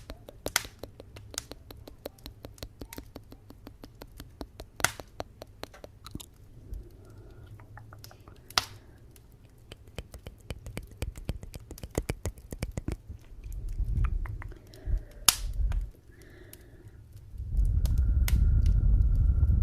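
Wood fire in a fireplace crackling and popping, with frequent small snaps and a few louder pops. Near the end a loud low rumble comes in, with a faint steady whistle above it.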